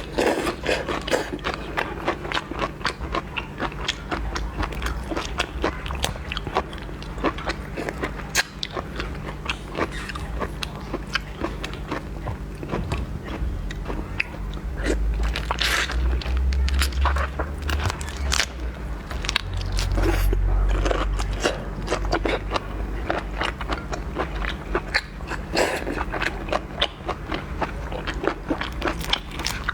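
Close-up eating sounds: seafood being bitten, cracked and chewed, with many sharp crunches and clicks, and two stretches of low rumble in the middle.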